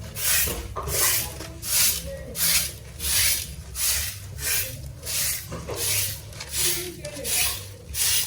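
Steady, rhythmic brushing strokes, about one and a half a second, each a short scratchy swish, like a brush or broom worked back and forth over a surface.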